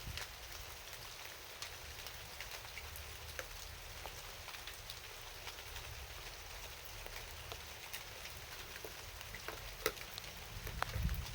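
Steady rain falling at night, with individual drops ticking sharply over the hiss. A brief low rumble comes in just before the end.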